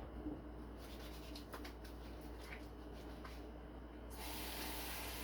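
Faint rustling and small clicks of handling, then about four seconds in a water tap is turned on and runs steadily for hand washing.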